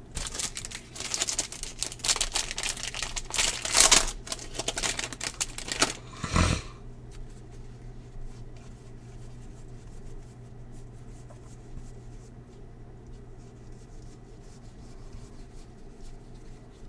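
Baseball trading cards being handled and sorted: several seconds of quick rustling and clicking as cards slide against one another, ending in a short dull thump about six seconds in. After that, only a faint steady hum.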